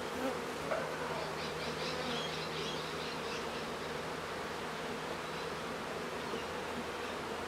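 A colony of honeybees buzzing steadily around an opened hive as the frames are worked, a continuous even hum. The bees are calm, not aggressive.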